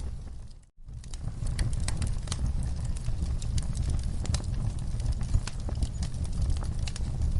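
Wood fire crackling in a fireplace: irregular sharp pops and snaps over a steady low rumble of the flames. Less than a second in, the sound dips out almost to silence and comes straight back.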